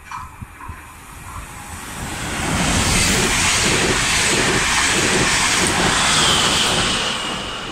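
Deutsche Bahn Intercity 2 double-deck train passing close by: the noise of wheels on rails swells over the first couple of seconds, stays loud, and begins to fade near the end, with a thin high whine in the last second or so.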